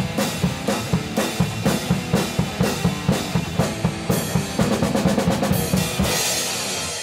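Rock drum kit playing a steady bass-drum and snare beat, with a quick fill about five seconds in, then a crash cymbal ringing out as the song ends.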